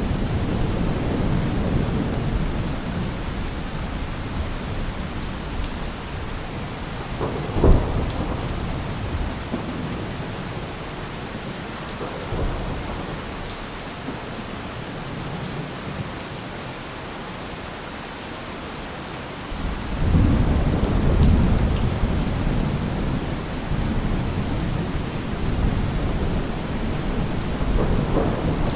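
Thunderstorm: steady heavy rain with rolling thunder. A single sharp thunder crack comes about a quarter of the way in, and a new low roll of thunder starts about two-thirds of the way through.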